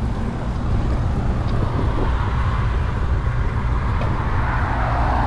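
Wind rumbling on the microphone of a camera on a moving bicycle, with a rushing road-traffic noise that grows louder from about two seconds in.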